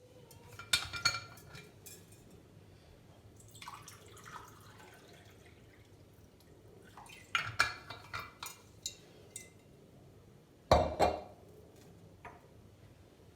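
Scattered light clinks and taps of small hard objects being handled, in short clusters a few seconds apart, the loudest near the middle and about eleven seconds in.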